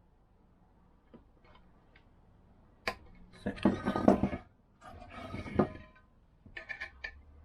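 Hands working on a scooter engine case: a sharp click, then two bursts of scraping and rubbing as parts are handled, and a few light ticks near the end.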